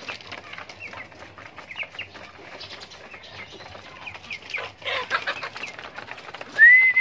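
Birds chirping in short, scattered calls. About six and a half seconds in comes a loud, steady whistle that is held for about a second.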